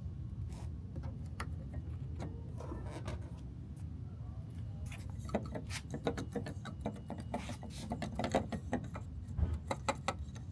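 Keys of an unpowered Yamaha CS60 synthesizer being pressed to check the key action for sticking keys: dull mechanical clicks and clacks, scattered at first and coming thick and fast from about halfway through.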